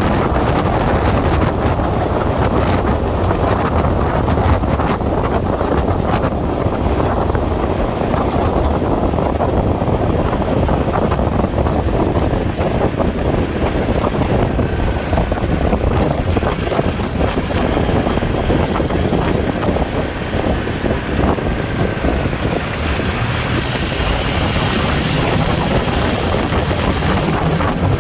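Steady wind rush buffeting the microphone of a motorcycle riding at speed, with the engine running underneath.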